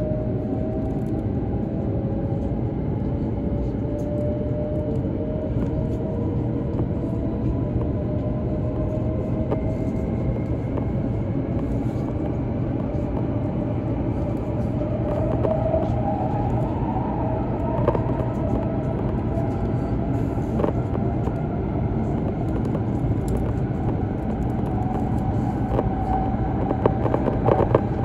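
Hokuriku Shinkansen E7/W7-series train heard from inside the passenger car while running: a steady rumble with a faint motor whine that slowly rises in pitch, and a few light clicks near the end.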